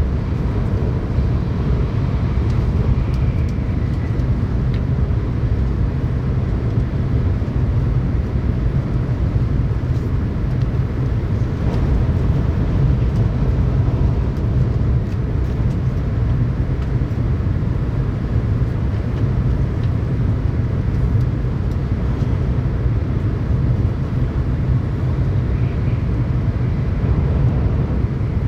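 Tokaido Shinkansen train running, heard from inside the passenger cabin: a steady, loud low rumble with a fainter hiss above it.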